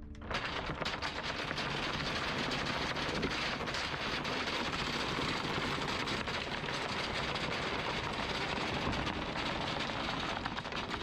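Anchor chain rattling out over the bow roller in a rapid, continuous clatter as the chain is paid out with the bridle attached, with a low engine hum underneath.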